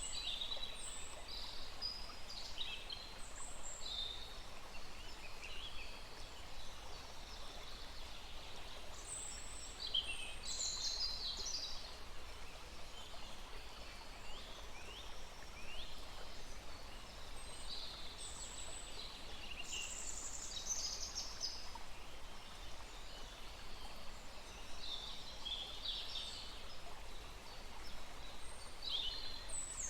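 Several small birds chirping and singing in short, high phrases throughout, over the steady faint rush of a small forest stream.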